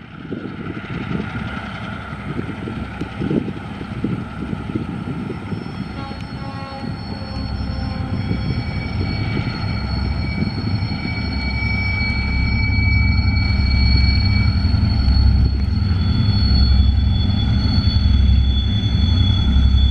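Diesel locomotives hauling an empty ore train approach, their engines a low throbbing drone that grows steadily louder. Steady high-pitched whining tones sound above it, one of them only for a few seconds in the middle.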